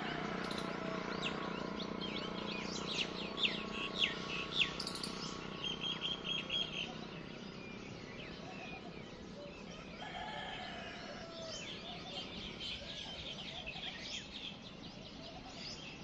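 Small birds chirping and twittering, with a quick run of sharp, falling chirps a few seconds in and a short rapid trill just after, then more scattered chirps near the end. A steady low background noise runs underneath.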